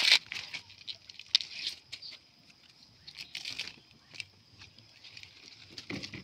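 Green corn ears being husked by hand: dry husks tearing and rustling in short irregular bursts.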